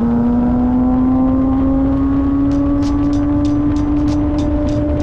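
Motorcycle engine running at high revs, its pitch climbing slowly and steadily as the bike accelerates, over a heavy wind rush. From about halfway, a run of sharp, high clicks sounds over it.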